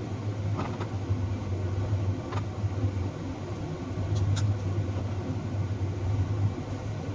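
Steady low motor hum, with a few light clicks now and then.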